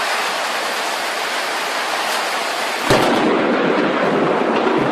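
Thunderstorm: a steady loud hiss of rain and rumbling thunder, with a sudden, louder thunderclap about three seconds in.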